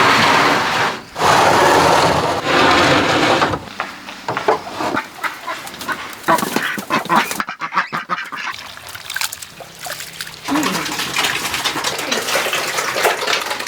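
A flock of domestic ducks quacking loudly, with many short, sharp calls through the middle.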